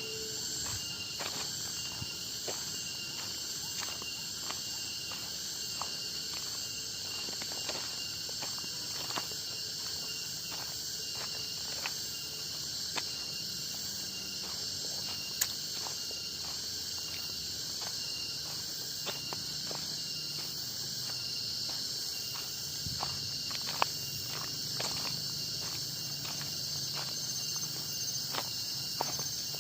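Steady high-pitched chorus of forest insects, with a walker's footsteps on the trail falling evenly, about two a second, and a couple of sharper snaps.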